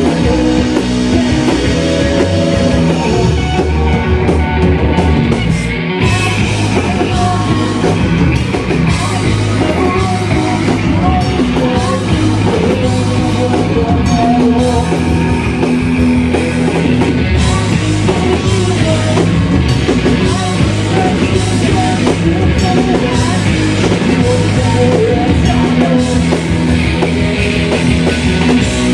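A shoegaze rock band playing live, loud and dense: distorted guitars, bass and a drum kit, with vocals buried in the mix.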